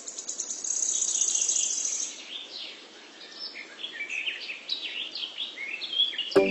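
Birds chirping with many short, quick calls, over a fast high insect-like trill that stops about two seconds in.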